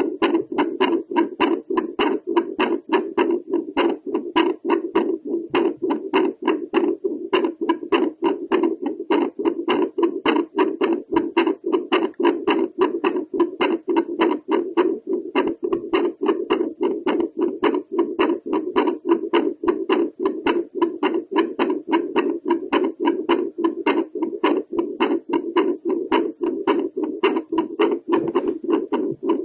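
Home doppler held to a woman's chest picking up her heartbeat as a fast, steady train of rhythmic pulses. Her heart rate is raised by squats.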